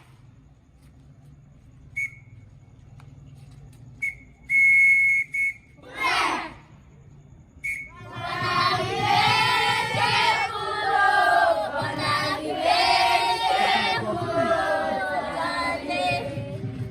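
A whistle blown in short blasts and one long, loud blast, with a single shout between them. Then, from about eight seconds in, a group of children's voices calling out together.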